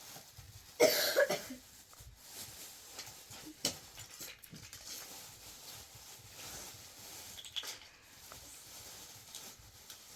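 A short, loud cough about a second in, followed by faint clicks and rustling.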